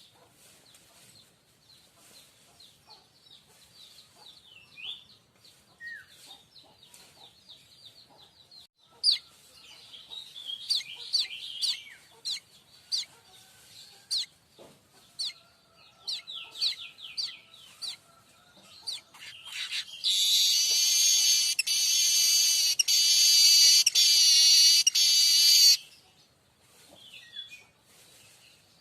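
Streaked weaver calling: scattered short chirps and squeaky notes, then a loud, buzzing, rattling song for about six seconds near the end, broken every second or so by brief gaps.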